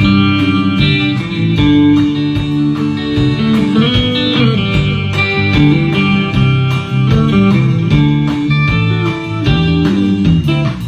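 Live band playing an instrumental break between sung verses of a country-rock song: a lead guitar over bass and a steady beat.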